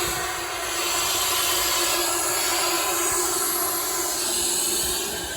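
Heritage railway train running, a steady rushing hiss with a low steady hum under it.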